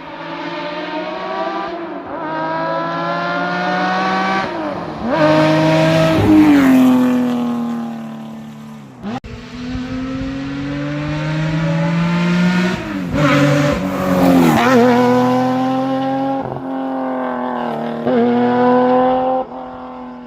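Historic rally car engine at full throttle on a stage. The pitch climbs through each gear and drops sharply at every shift or lift, several times over.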